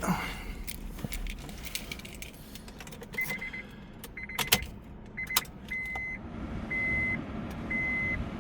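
Keys jangling with scattered clicks, then the Acura RSX's warning chime beeping at a steady high pitch about once a second from about three seconds in.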